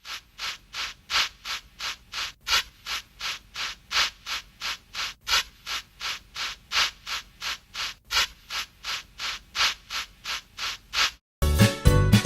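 Steam locomotive chuffing: a steady rhythm of hissing exhaust beats, about three to four a second. Near the end it cuts off suddenly and music starts.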